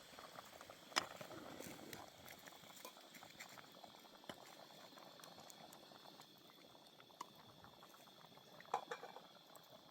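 Food cooking over a wood fire: a faint steady crackle and sizzle, broken by scattered small pops and two sharper ones, about a second in and near the end.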